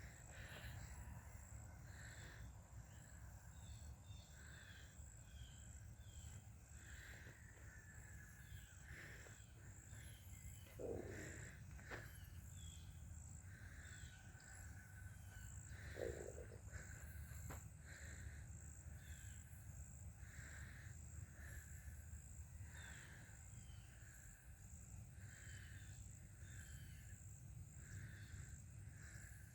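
Faint countryside ambience: small birds chirping over and over, and a steady high insect trill. Two short, louder calls stand out, one about a third of the way in and another a few seconds later.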